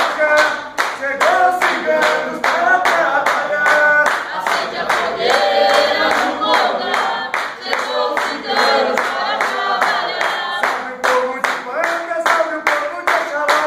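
Voices singing an Umbanda ponto de cigano (a gypsy-spirit hymn), several singers together, over steady, rhythmic hand clapping that keeps the beat throughout.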